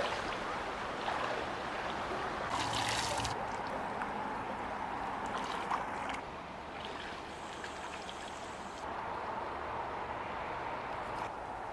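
Steady rush of flowing river water, with a brief higher hiss about three seconds in.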